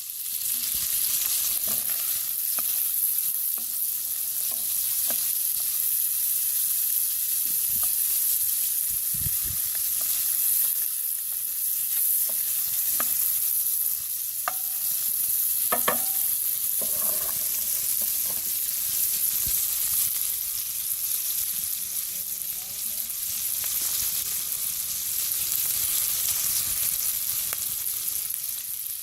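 Chopped onion and garlic sizzling steadily in hot oil in a pan over a campfire, with scattered clicks and knocks, a cluster of them about halfway through.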